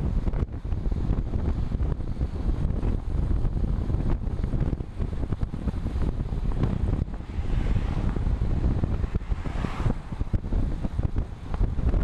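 Wind buffeting the microphone while riding a road bike, a steady low rumble. A rushing hiss builds about seven seconds in and fades near ten seconds.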